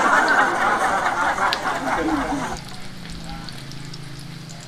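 Garlic and ginger sizzling in hot oil in a pot. The sizzle is loud for the first two and a half seconds, then settles to faint scattered crackling over a low steady hum.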